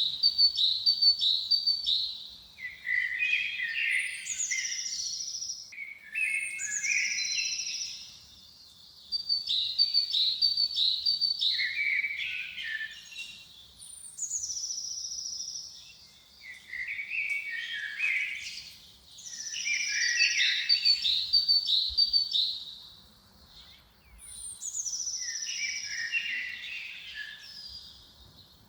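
A songbird singing the same phrase over and over, every few seconds: each phrase opens with a high whistled note, runs into a string of quick notes and ends in a lower jumbled flourish, with short pauses between.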